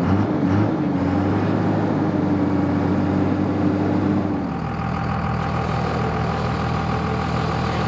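Dodge Ram pickup engine held at high revs to keep the battery voltage up for the electric winch, with a steady tone over it. About four and a half seconds in, the tone stops and the engine settles to lower, steady running.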